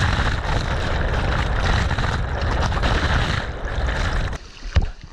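Small waterfall pouring into a rock pool, water rushing and churning close to the microphone. The rush drops away about four seconds in, followed by a single sharp knock.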